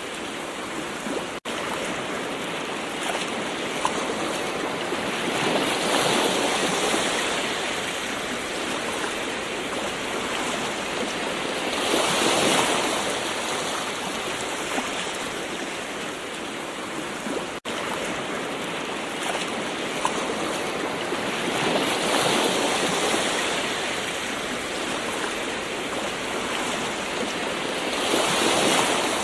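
Gentle ocean waves: a steady wash of surf that swells louder as a wave breaks, four times at intervals of roughly six to ten seconds. The sound cuts out for an instant twice.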